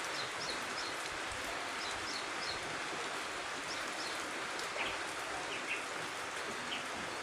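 Light rain falling as a steady, even hiss, with a bird's short high chirps now and then.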